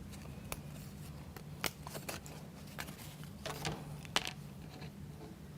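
Light, scattered clicks and taps of plywood model-kit parts being handled and fitted together, about six over several seconds.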